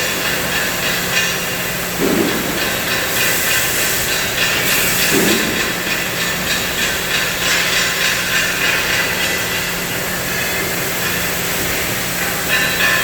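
CNC cutting machine's torch cutting steel: a steady, loud hiss with a constant low hum underneath.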